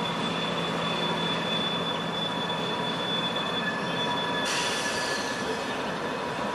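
Freight train cars rolling past with steady high-pitched steel wheel squeal over the rumble of the wheels. About four and a half seconds in, the highest squeal tone stops and a brighter hiss takes over.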